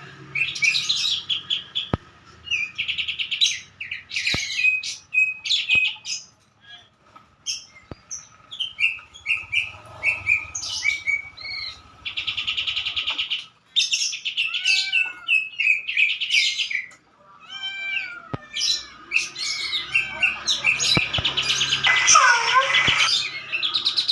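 Kapas tembak songbird singing a long varied song of quick chirps, fast rattling trills and sweeping whistled notes, with short pauses between phrases.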